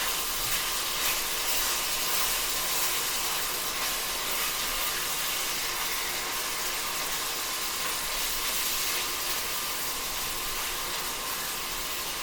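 Beef browning in a soup pot on the stove, a steady sizzle.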